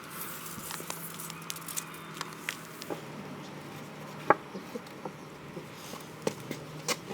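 Irregular light knocks and clicks of macrocarpa timber pieces being handled and set down, with one sharper knock about four seconds in.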